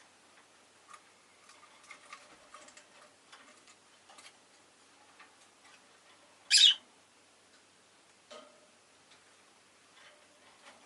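Rosy-faced lovebird giving one sharp, loud chirp about six and a half seconds in, amid scattered faint clicks and short chirps.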